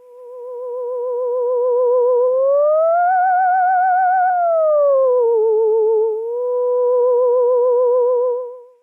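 Theremin-like electronic tone wavering with a steady vibrato. It fades in, slides up in pitch about two seconds in and holds there. It then slides down below its starting pitch, settles back and fades out near the end.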